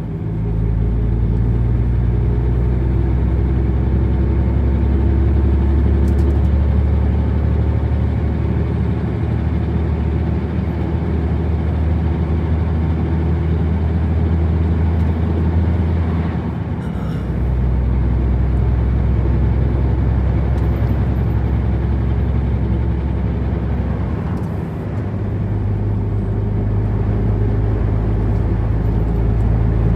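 Truck engine running steadily while driving, a low drone with tyre and road noise. The engine note dips and changes pitch twice, a little past halfway and again near the end.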